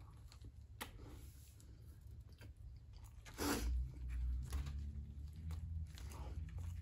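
Chewing a mouthful of soft garlic bread close to the microphone, with small wet mouth clicks and smacks; a little louder from about three and a half seconds in.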